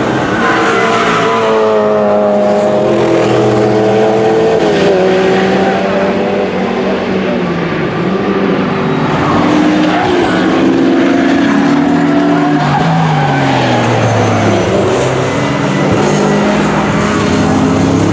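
GT3 racing cars passing at speed, one after another, their engine notes stepping down through gear changes, falling away and rising again under acceleration.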